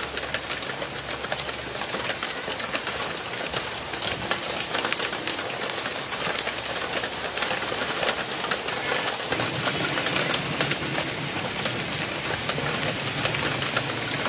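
Steady rain falling, a dense even hiss, with a low steady hum underneath.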